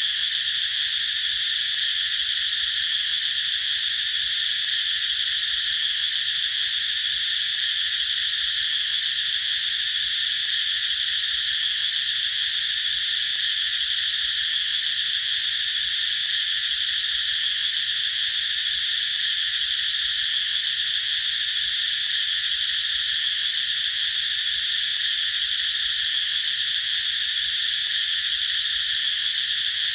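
Cicadas singing together in one continuous, steady high-pitched buzz that does not rise or fall.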